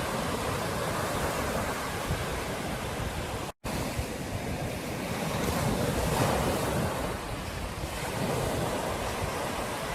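Ocean surf washing onto a beach, a steady rush of breaking waves that swells a little in the middle; the sound drops out completely for a split second about a third of the way in.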